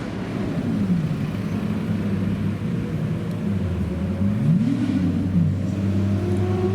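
Supercar engine running with a low rumble. Its revs fall back about a second in, then a quick throttle blip about four seconds in sends the pitch up and back down.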